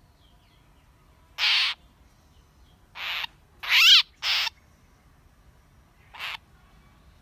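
A bird giving five short, harsh calls, each lasting a fraction of a second, at uneven gaps. The loudest, about four seconds in, is followed almost at once by another; the last, near the end, is fainter.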